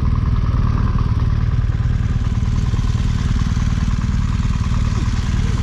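BMW R1200GS Rallye's boxer twin engine running steadily as the motorcycle is ridden uphill, a dense, even pulsing rumble with a steady rush of noise over it.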